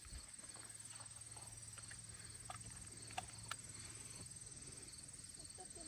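Faint outdoor quiet with a steady high insect trill and a few small scattered clicks and knocks.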